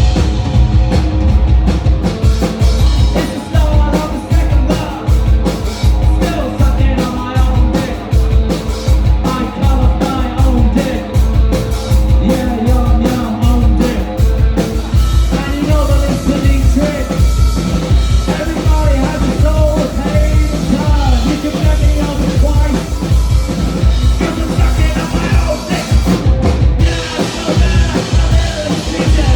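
Live rock band playing loud, with a pounding drum kit and a singing voice over the band.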